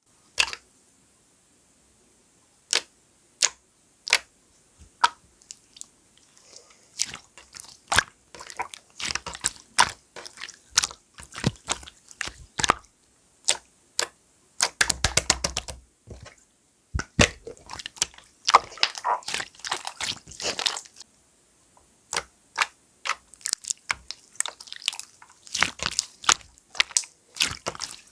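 Clear slime being pressed and worked by hand, giving off sharp, sticky clicks and pops in irregular clusters, thicker in some stretches than others.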